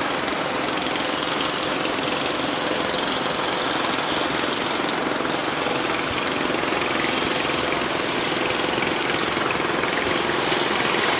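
Steady rushing roar of big waves breaking, with a faint low engine hum underneath.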